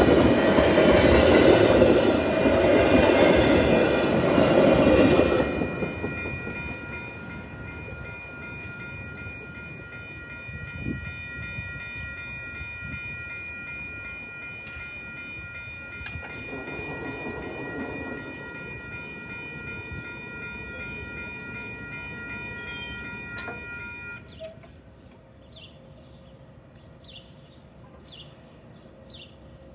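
A train passing close by: loud rumbling and wheel clatter that dies away about five seconds in. A steady high ringing, likely from the grade-crossing warning bells, goes on after it and stops abruptly about 24 seconds in, and birds chirp near the end.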